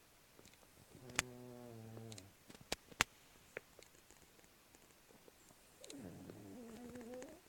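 A sleeping dog snoring: two drawn-out, pitched snores, each about a second and a half long and several seconds apart. A few sharp clicks come during and just after the first snore.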